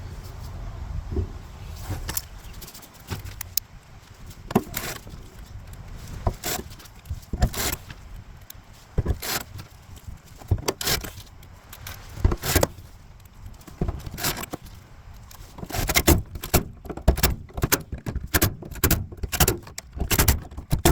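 Metal tools and parts being handled: a string of irregular clicks, knocks and clinks, few at first and coming quickly one after another in the last five seconds or so.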